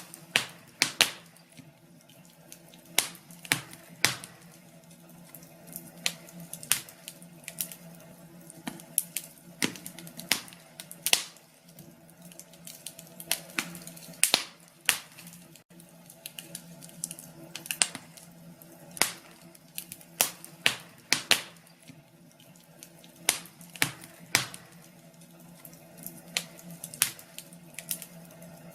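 Wood fire crackling in a fireplace: irregular sharp pops and snaps, several a second at times, over a faint steady hum.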